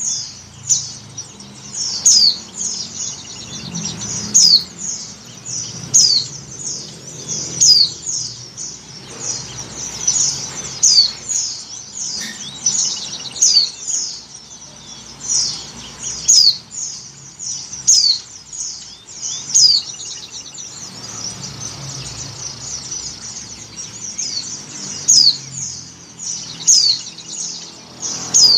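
White-eye (pleci) calling: short, high, sharply falling chirps repeated about once a second, with a sparser stretch a little past the middle. It is offered as a female in breeding condition calling to males, used as a lure call.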